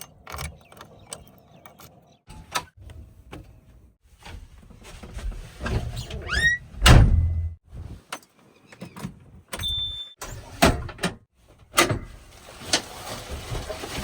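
Backhoe loader at work: a string of metallic clanks and knocks with a short rising squeal about halfway through, over an intermittent low engine rumble.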